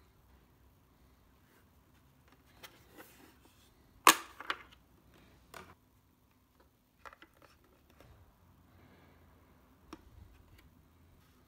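A few separate sharp clicks and light knocks of objects being handled, the loudest about four seconds in, over a faint steady low hum.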